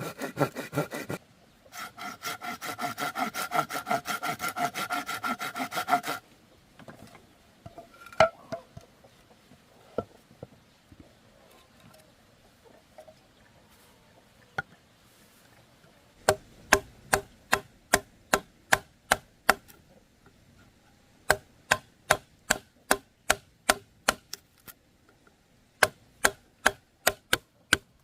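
Bamboo being sawn by hand in quick back-and-forth strokes that ring, for the first six seconds. From the middle on comes a run of sharp, evenly spaced chopping strikes on wood, about three a second, in three bursts with short pauses between them.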